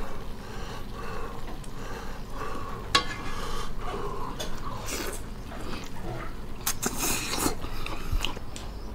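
A man biting and chewing meat off a pork rib, with irregular wet mouth noises. A sharp click comes about three seconds in, and there are louder chewing bursts near the middle and later on.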